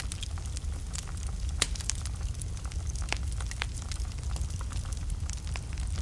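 Wood fire burning in a fireplace: irregular sharp crackles and pops from the burning logs, a few louder snaps among them, over a steady low rumble of the flames.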